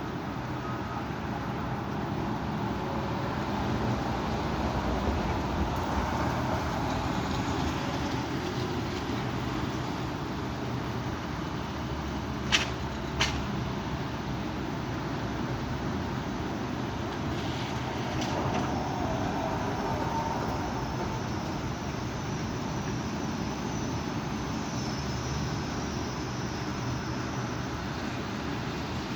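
Strong wind blowing in gusts, a steady rushing noise that swells and eases, with two sharp knocks close together about twelve seconds in.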